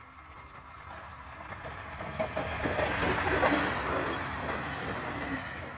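A train passing by, growing louder to a peak a little past halfway and then fading, with wheels clattering over the rails at its loudest.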